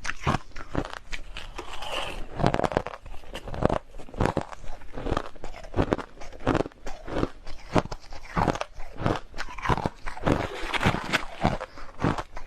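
A person biting and chewing hard crushed ice close to the microphone, giving a rapid, irregular run of sharp crunches, several a second.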